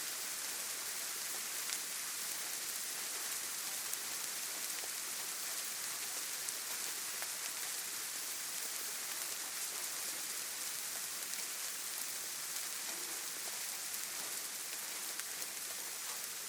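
Steady rain falling on foliage, an even hiss with scattered small drop ticks.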